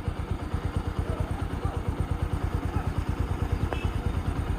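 An engine running steadily with a fast, even low chugging.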